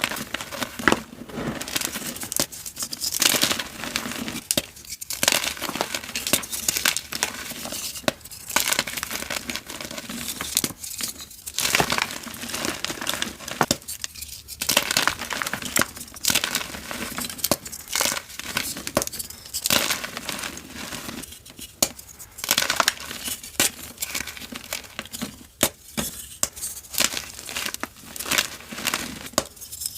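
Blocks of dyed gym chalk crumbling and being crushed: a dense run of gritty, crackly crunches, broken by brief pauses every few seconds.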